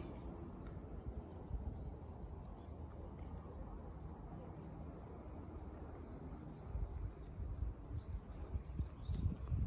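Insects, likely crickets, chirping steadily in a high, even pulsing trill. Under it runs a low rumbling noise that grows louder over the last few seconds.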